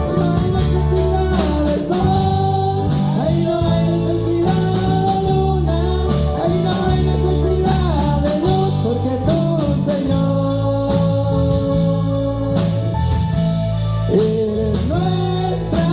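Live worship music: a singer holds a slow melody over sustained keyboard chords and bass, with a steady drum beat.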